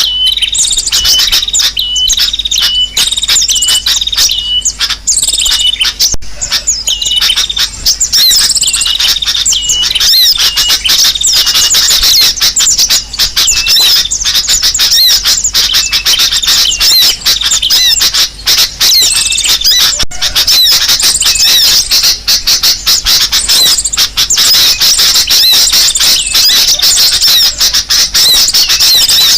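Bird-lure recording of small-bird calls: kolibri sogok ontong (sunbird) calls mixed with sooty-headed bulbul calls, loud dense high-pitched chirping and trilling. It opens with a regular series of short notes about twice a second, then becomes a continuous chatter.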